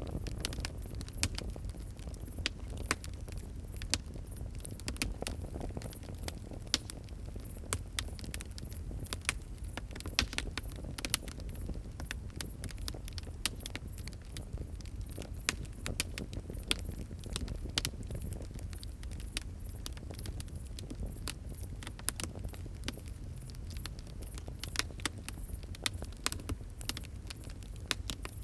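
Fire crackling: frequent irregular sharp pops and snaps over a steady low rumble of burning.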